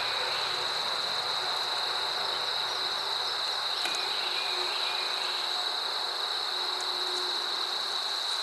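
Steady insect noise: an even, high-pitched whine over a hiss-like wash, with honey bees flying around an open hive.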